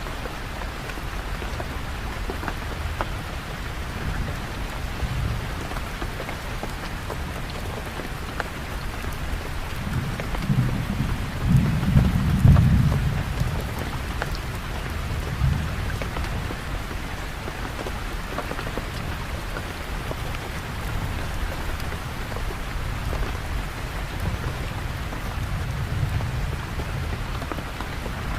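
Steady heavy rain with patter of individual drops, and a low roll of distant thunder swelling about ten seconds in and fading by about thirteen seconds, with fainter rumbles later.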